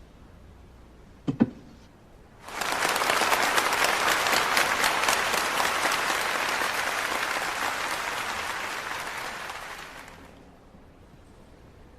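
Two sharp clicks of billiard balls striking, then an audience applauding for about eight seconds before fading out.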